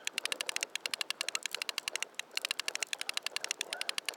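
Fishing reel clicking rapidly and evenly, about a dozen clicks a second, with a couple of brief pauses, while a mahi-mahi is being fought on the line.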